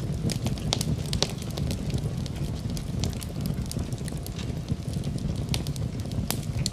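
Wood fire burning in a fireplace: a steady low rumble of the flames with frequent sharp crackles and pops at uneven intervals.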